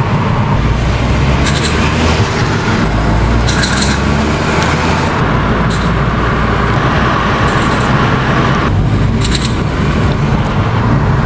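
Petrol car engine and road noise heard from inside the cabin while driving, with several sharp bursts of engine knock over the running engine. This is severe knocking ('super knock'), abnormal combustion in the cylinders that can break the engine.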